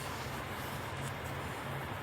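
Truck engine idling steadily: a low, even hum under a constant hiss.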